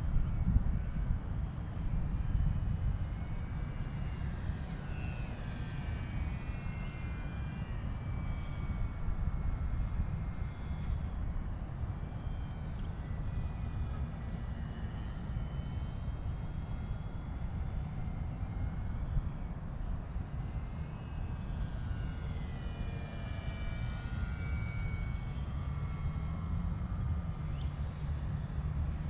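Whine of the electric motor and propeller of a Volantex Sabre 920 foam RC airplane in flight, rising and falling in pitch as the plane passes and the throttle changes. Under it is a steady low rumble of wind on the microphone.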